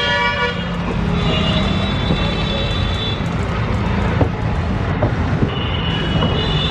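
Steady rumble of a passenger train running, heard from on board, with a horn sounding briefly at the start. High-pitched tones come and go over the rumble, and a couple of sharp knocks are heard near the middle.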